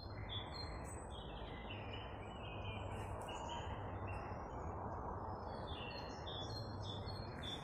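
Small birds chirping and twittering with many short, high notes, over a steady low background noise.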